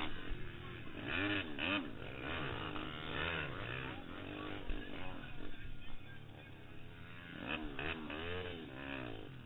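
Pitster Pro LXR160 pit bike's 160cc single-cylinder four-stroke engine revving up and down again and again while racing, its pitch rising and falling several times.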